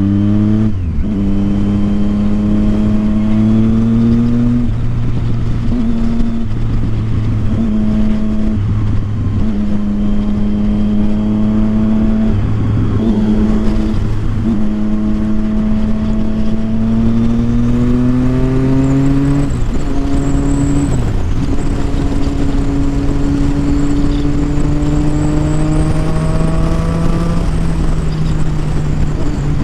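Triumph Street Triple 675's inline-three engine through a loud Yoshimura aftermarket exhaust, heard on the move under way: the engine note climbs slowly through each stretch and dips briefly several times as the throttle is eased, then climbs again.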